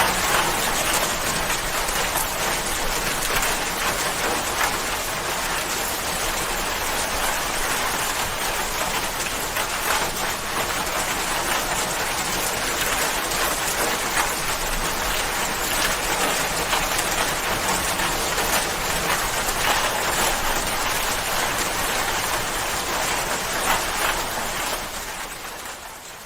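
Steady, dense rain falling, with individual drops ticking through it; it fades out near the end.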